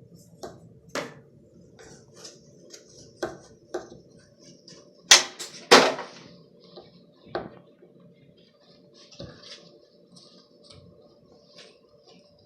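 Duster brushing and scraping inside a bathroom exhaust fan housing and against the fan wheel, with scattered light clicks and taps and two louder knocks about halfway through.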